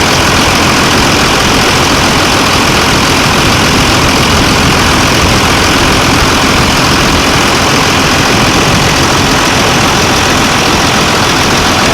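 Freshly installed 24-valve Cummins 5.9-litre inline-six turbo-diesel in a 2002 Ram pickup, idling steadily.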